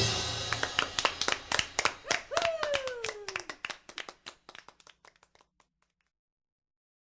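Sharp hand claps trailing off and fading out over about five seconds as a song ends, with one falling tone partway through, then silence.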